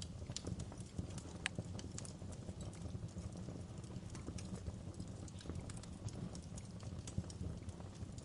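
Wood fire burning in a fireplace, a steady low rumble with irregular sharp crackles and pops, one louder pop about a second and a half in.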